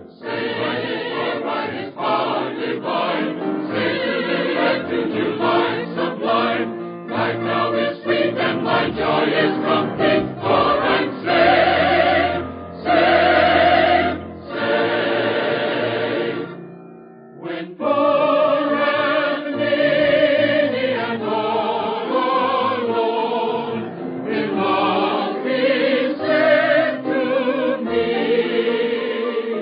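Choir singing a gospel hymn, heard as an old, band-limited radio recording, with a short pause about two-thirds of the way through.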